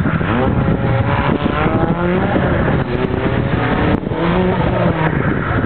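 Lancia Delta Integrale 16-valve's turbocharged four-cylinder engine revving up and down repeatedly as the car is driven hard, with a brief drop in level about four seconds in.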